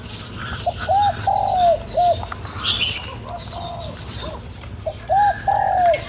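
Spotted dove cooing: two phrases of short arched coos, each with one longer drawn-out note, the first starting about a second in and the second near the end. Small birds chirp faintly and higher-pitched behind.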